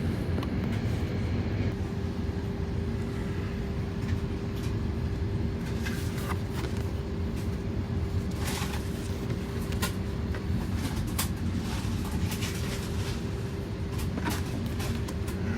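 Cabin noise of an Airbus A320neo airliner: a steady low rumble with a constant hum running through it and a few small clicks and knocks scattered across it.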